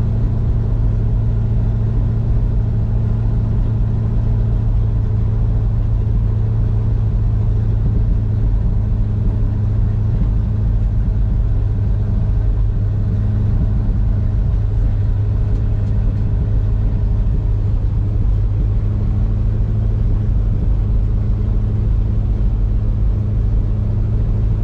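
1966 Ford truck's V8 engine running at a steady fast idle with the choke pulled out. It is a cold engine not yet warm enough to idle on its own, typical of this truck until it is well warmed up.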